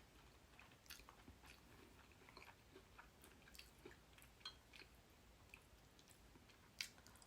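Faint chewing and wet mouth sounds of a person eating, with scattered soft clicks and one slightly louder click near the end.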